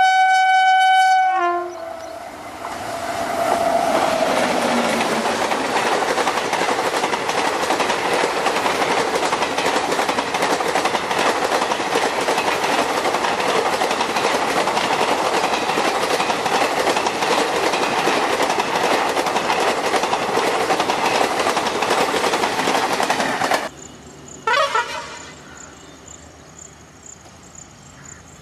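An Indian Railways electric locomotive sounds a horn blast for about a second and a half. Its passenger train then passes close by with loud, continuous clattering of wheels over the rail joints for about twenty seconds, and the sound cuts off suddenly. After the cut there is a brief burst, then a quieter steady high chirping of insects.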